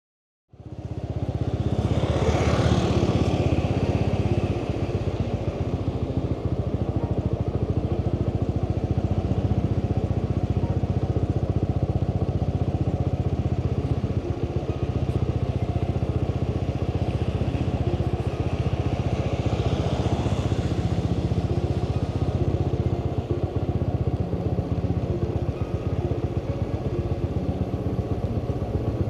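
Motorbike engine running steadily at cruising speed with road and wind noise, cutting in abruptly just after the start; a rushing hiss swells briefly twice.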